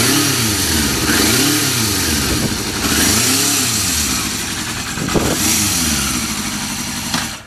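Yamaha FZR400RR 3TJ inline-four motorcycle engine with an aftermarket Daishin muffler, blipped up and down several times, then cutting off suddenly near the end.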